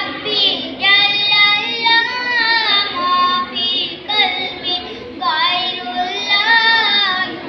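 A child singing solo in a high voice, holding long notes that bend and waver in pitch.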